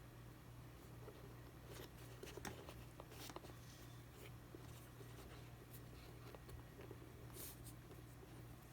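Near silence over a steady low hum, with faint scattered clicks and light ticks from small parts and tools being handled.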